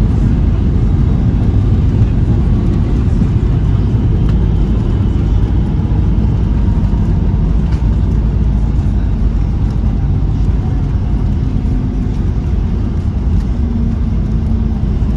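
Steady, loud low rumble of a Boeing 737-800's jet engines.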